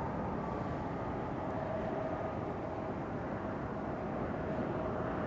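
Jet airliner engine noise: a steady rumble with a faint high whine that comes in about a second and a half in.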